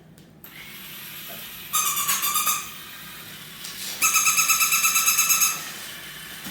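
Cheap battery-powered toy robot dog switched on: a steady hiss starts, then two loud electronic tones with a fast warble play from it, the first about a second long near two seconds in, the second longer at about four seconds in.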